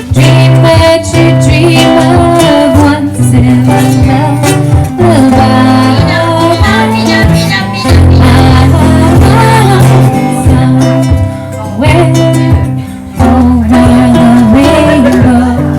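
Live acoustic country-style song: strummed acoustic guitar over a steady bass line, with a voice singing.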